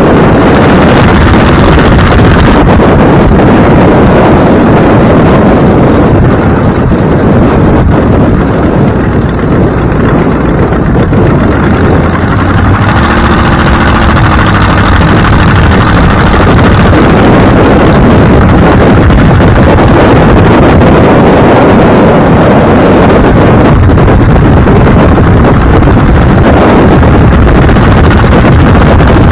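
Loud, steady road and wind noise from a moving vehicle, with wind buffeting the microphone. A short pitched tone rises out of the noise about halfway through.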